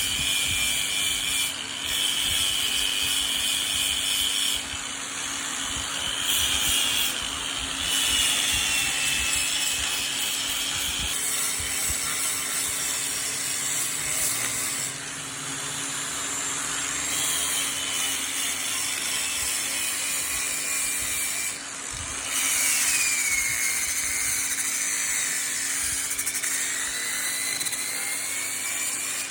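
A power tool working wood, with a steady motor hum under a continuous rasping noise and a high whine that shifts in pitch as the tool bears on the wood. The load eases briefly a few times.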